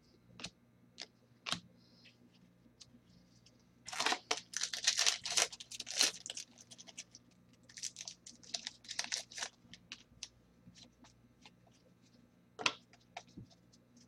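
Trading cards being handled: about four seconds in comes a run of tearing and crinkling, like a card pack wrapper being ripped open, and another shorter rustle a few seconds later. Short clicks and slides of card stock run between them.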